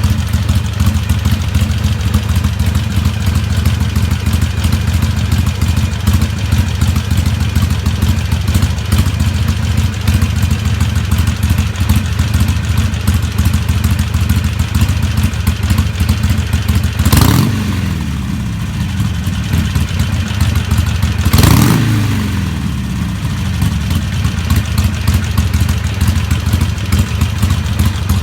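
Harley-Davidson Sportster XL883N V-twin idling steadily through Cycle Shack 3-inch slip-on mufflers, its idle tuned to about 800 rpm. It is revved twice, briefly, about two-thirds of the way through, the pitch rising then falling back to idle each time.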